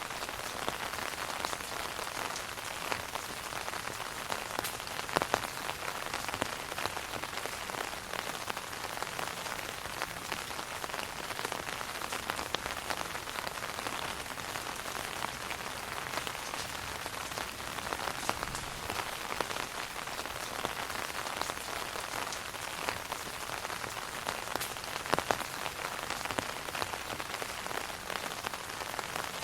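Steady rain falling on an umbrella canopy overhead: a dense even hiss of small drops, with scattered sharper, louder drop hits, the strongest about five seconds in and again near twenty-five seconds.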